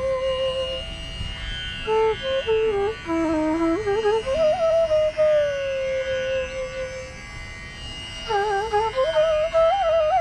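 Bansuri (bamboo flute) playing a slow, unmetred alap in Raag Chandrakauns over a steady drone. It holds long notes with gentle downward glides and plays ornamented phrases between them, pausing briefly about three-quarters of the way through before the next phrase.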